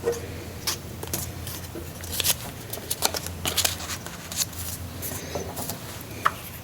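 Paper handling: light rustling with scattered soft taps and clicks as paper heart cut-outs are glued and pressed down onto a paper sheet, over a faint steady low hum.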